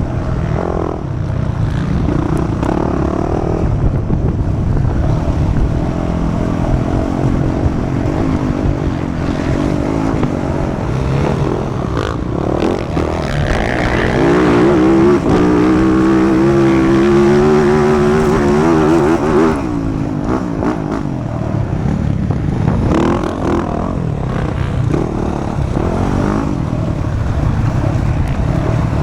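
Motocross dirt bike engine revving up and down through the gears, with a long high-revving stretch about halfway through that drops off suddenly.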